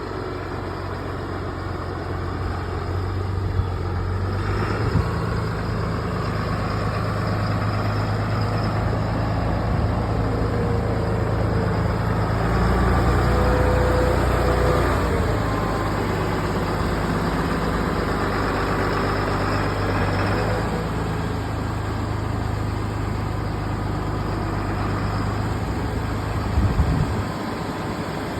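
A 2009 Valtra T151 tractor's six-cylinder diesel engine running steadily. It grows louder for a stretch in the middle, while a faint whine glides up and down over it.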